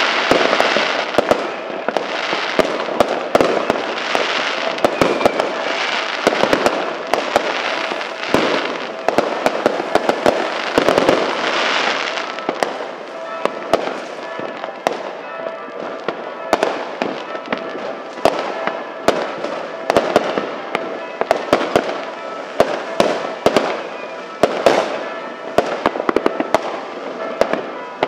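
Fireworks and firecrackers going off: a dense crackle of many sharp bangs, thinning after about twelve seconds into scattered separate bangs and pops.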